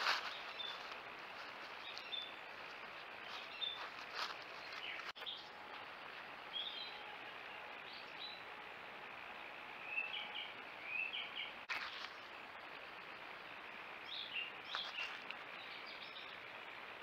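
Small birds chirping in short, repeated notes over a steady background hiss. The chirps bunch up about ten seconds in and again near the end, and a few short rustles stand out above the hiss.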